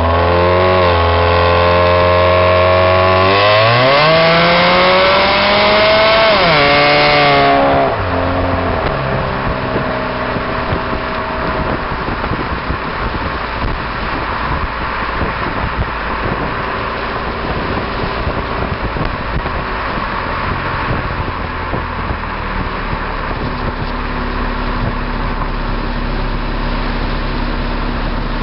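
Exhaust of a 2002 Pontiac Grand Am's 2.2-litre Ecotec four-cylinder, straight-through with no catalytic converter or resonator, heard close at the tailpipe while driving. It climbs in pitch under hard acceleration, dips briefly about six and a half seconds in, rises again, then drops off when the throttle closes about eight seconds in. It settles to a lower, even drone under wind and road noise.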